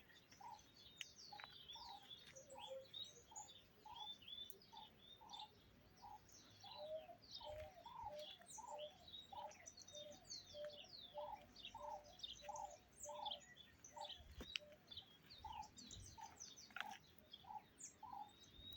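Faint chorus of songbirds: a steady series of low, repeated notes about one and a half a second, with many quick high chirps and slurred notes from other birds above them.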